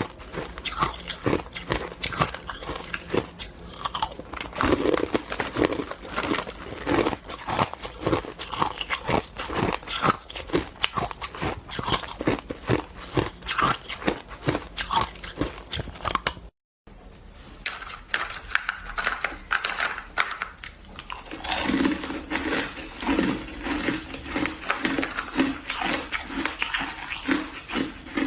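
Person chewing crunchy ice close to the microphone: a fast, continuous run of sharp crunches, broken by a brief cut to silence a little past halfway.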